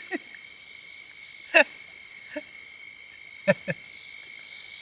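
Night-time insect chorus: crickets keep up a steady, high-pitched trill, with a few brief voice sounds from a person about a second and a half in and again around three and a half seconds in.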